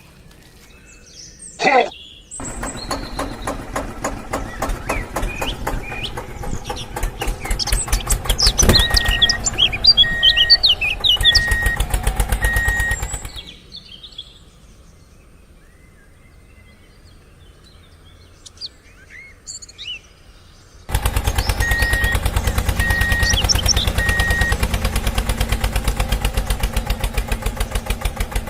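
Small engine of a miniature DIY tractor running with a fast, even chugging beat. It starts about two seconds in, stops a little before halfway, and starts again about two-thirds of the way through, with birds chirping over it.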